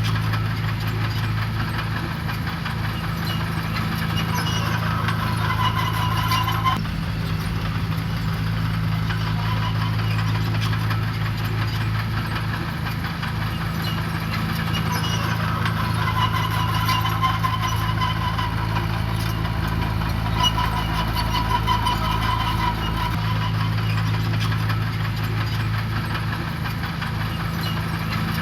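Diesel engine of heavy construction equipment running steadily.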